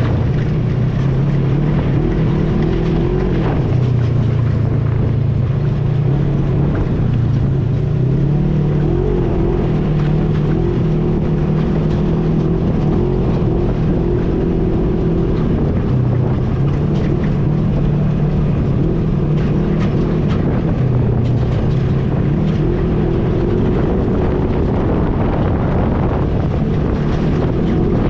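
ATV engine running at a steady, slightly wavering pitch while riding.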